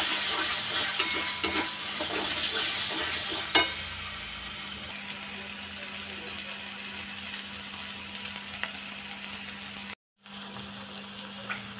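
Spiced onion masala sizzling in oil in a pan while a plastic spatula stirs and scrapes it, with a sharp knock about three and a half seconds in. The sizzle is quieter after that, there is a steady low hum underneath, and the sound cuts out for a moment near the end.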